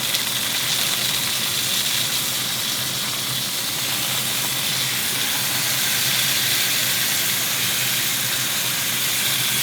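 Food sizzling steadily in a pan of very hot olive oil.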